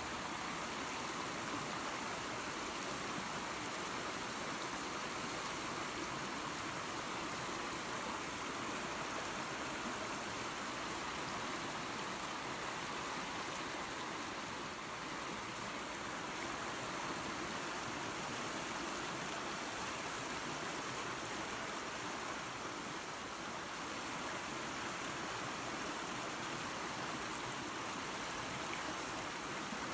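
Small waterfall and creek running water: a steady, even rush with no breaks.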